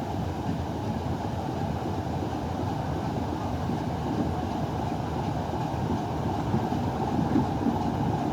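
Black 5 steam locomotive and Class 27 diesel moving together along the track on a run-round: a steady rumble of engine and wheels on rail, growing a little louder near the end.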